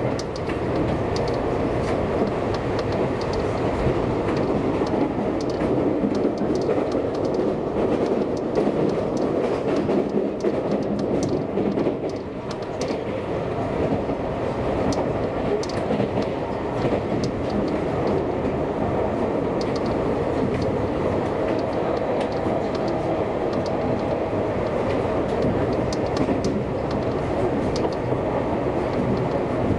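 Seibu Railway electric commuter train running along the line, heard from inside the carriage: a steady rolling rumble with faint clicks of the wheels over rail joints.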